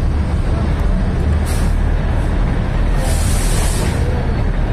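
Narrow-gauge diesel toy train moving off slowly from the station, heard from inside the coach: a steady low rumble of engine and wheels. A short hiss of air comes about one and a half seconds in and a longer one about three seconds in.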